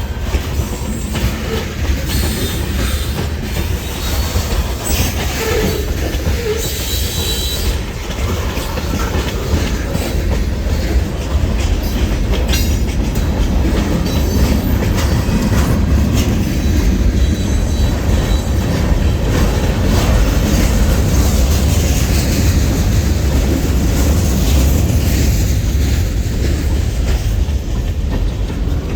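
Kiamichi Railroad freight train rolling past, its steel wheels rumbling and clicking over the rails, with a brief wheel squeal about seven seconds in.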